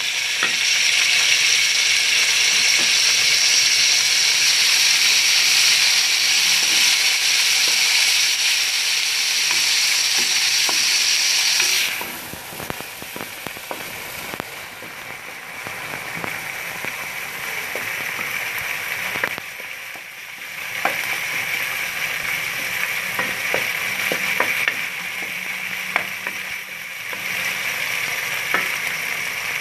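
Chopped tomatoes, green chillies and ginger frying in hot ghee in a steel karahi: a loud, steady sizzle that drops suddenly about twelve seconds in and carries on quieter. Through the quieter part a spatula scrapes and clicks against the pan as the mixture is stirred.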